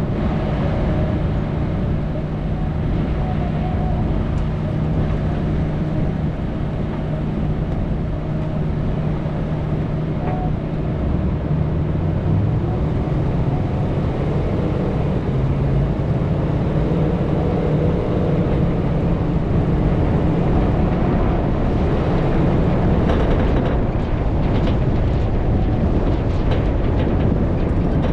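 Motor vehicle running steadily, its engine hum holding a fairly even pitch, with rough rumbling noise growing a little in the second half.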